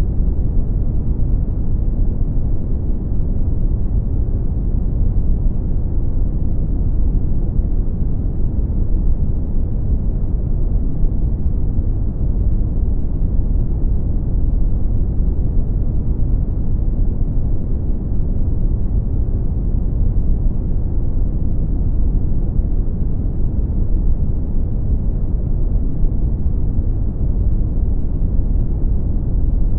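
Steady brown noise: a deep, even rumbling hiss with most of its weight in the bass and little treble, unchanging throughout.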